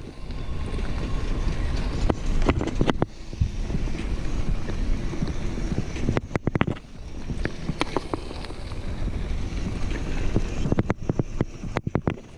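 Wind buffeting the microphone over the low rumble of a mountain bike rolling along a dirt trail, with a few clusters of sharp clicks and knocks from the bike jolting over bumps.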